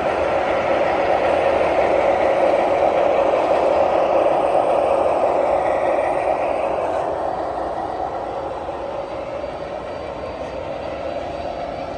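O-gauge three-rail model train running past on the layout, a steady rolling rumble of wheels and motor on the track that is loudest for the first several seconds, then eases off as it moves away.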